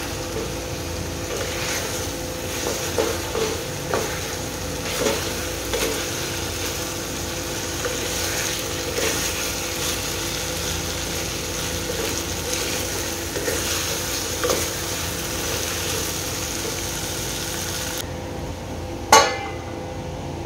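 Chicken and green coconut masala paste frying in a metal pot with a steady sizzle, while a wooden spatula scrapes and knocks against the pot about once a second as it is stirred. Near the end the sizzle drops away and a steel plate put on the pot as a lid gives one sharp clank.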